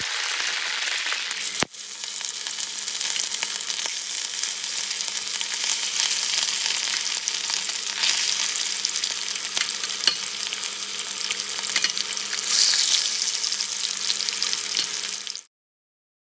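Masala-coated sardines and curry leaves frying in hot oil: a steady sizzle with occasional sharp pops. It cuts off suddenly near the end.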